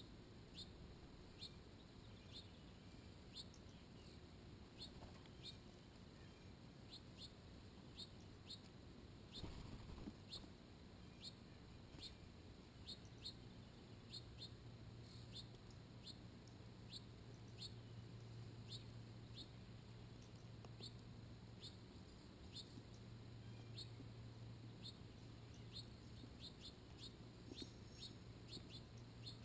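Faint, repeated short high chip calls of a bird, coming about once a second or a little faster, each a quick downward sweep.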